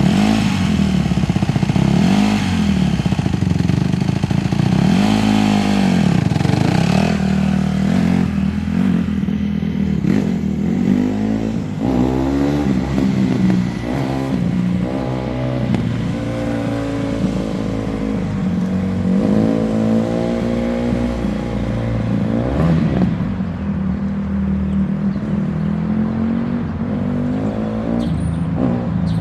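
Honda CRF150R dirt bike's single-cylinder four-stroke engine revving up and down as it is ridden. Its pitch climbs and drops again every second or two.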